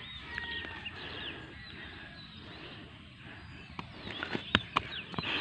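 Quiet rural outdoor ambience with faint, scattered bird chirps. Several sharp clicks or taps come in the last couple of seconds.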